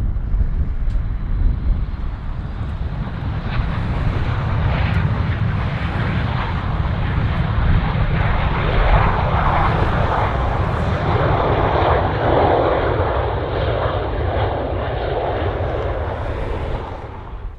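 Jet airliner's engines running loud and close, a steady deep rumble with a rushing roar that swells through the middle and eases slightly toward the end.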